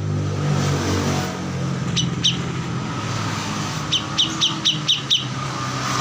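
Kores songbird giving sharp high chirps, two about two seconds in, then a quick run of six about four to five seconds in. Underneath runs a steady low engine-like hum.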